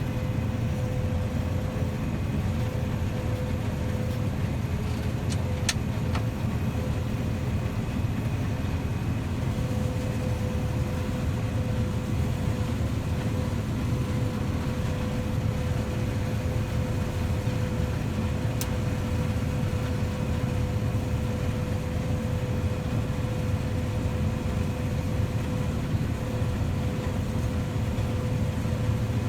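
Farm tractor engine running steadily, heard from inside the cab as a continuous low drone with a steady whine above it.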